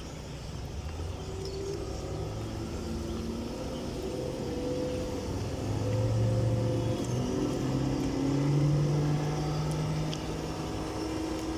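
Motorboat engines running on the river, several at once, their pitch drifting as the boats move. The sound swells about halfway through and again a little later.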